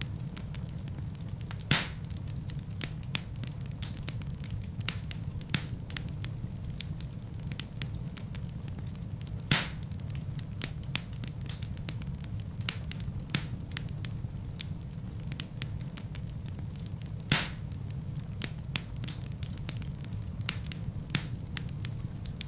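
Fire burning in a fireplace: a steady low rumble of flames with constant crackling and three louder, sharper pops spread through.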